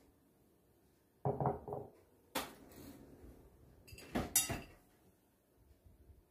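Dishes and cutlery being handled: a few dull knocks about a second in, then sharp clatters and clinks of crockery and metal twice more.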